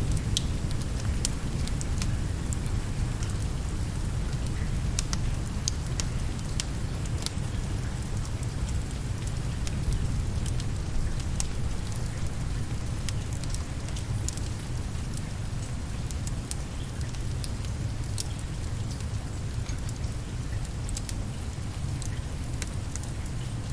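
Steady rain mixed with the scattered sharp crackles of a wood fire. A low rumble of thunder dies away over the first few seconds.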